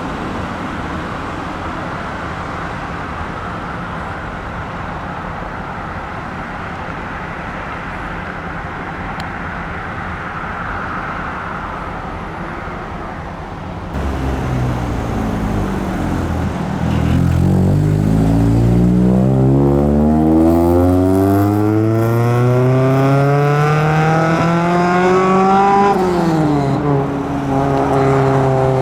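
Steady road and engine noise, then about halfway through a car engine pulls hard, its pitch climbing steadily for some ten seconds before dropping sharply with an upshift and running on at a steady pitch.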